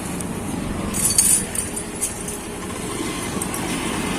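Honda CBR150R's single-cylinder engine idling steadily through an aftermarket Akrapovic-style racing exhaust, with a few light metallic clicks about a second in.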